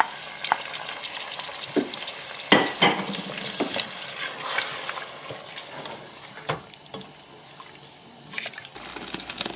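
Chicken and yogurt sizzling in a pot as they are stirred and cooked down, with a spoon knocking and scraping against the pot now and then.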